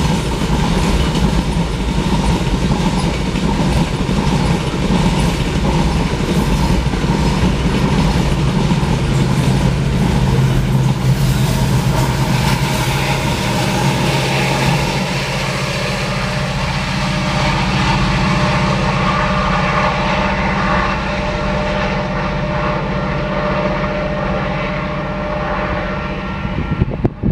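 Loaded covered hopper cars of a freight train rolling past a grade crossing with a heavy rumble and clacking wheels. The rumble eases about halfway through as the train clears. The crossing's warning bell keeps ringing, with steady tones.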